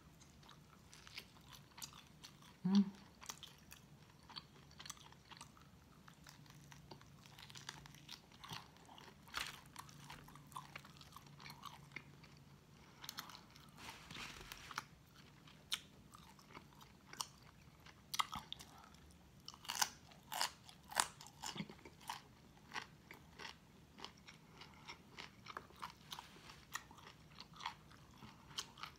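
Close-miked eating: a person bites into a piece of baked pork loin and chews, with irregular wet mouth clicks and crunches that come thicker and louder a little past the middle.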